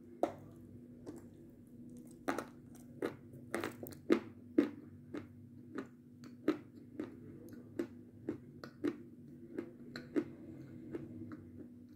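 Close-miked biting and chewing of a dry, powdery white chocolate bar: a sharp bite near the start, then a run of crisp crunches about one or two a second, over a steady low hum.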